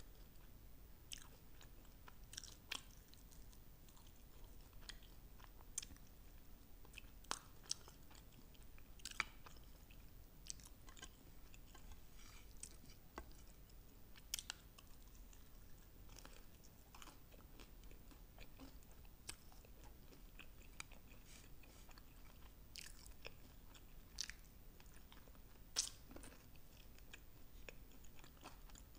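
A person biting and chewing sauce-glazed fried chicken wings, with sharp, irregular crunches and crackles throughout.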